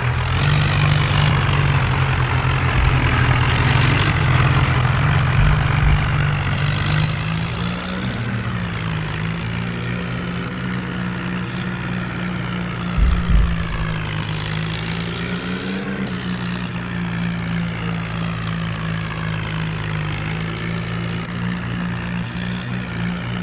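A vehicle engine running steadily while being driven, its pitch lifting slightly twice. Several bursts of hiss come over it.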